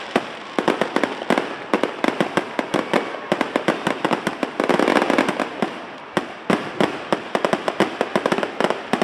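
Fireworks finale: a rapid, continuous barrage of aerial shell bursts, several bangs a second with crackling in between, thickest for a moment around the middle.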